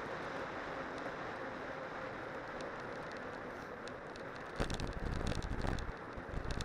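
Cyclocross bike on spiked tyres riding downhill over a snowy trail: a steady rushing noise of tyres and wind. From about four and a half seconds in, heavy low buffeting from wind on the microphone mixes with rattling knocks.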